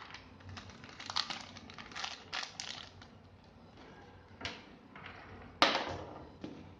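Small plastic printer parts being handled and fitted by hand: a run of light clicks and rustles, then a sharper knock a little more than five seconds in.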